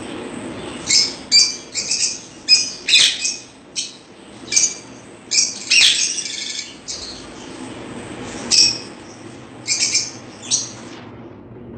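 Small cage birds chirping: short, shrill calls in quick irregular bursts, starting about a second in and stopping shortly before the end.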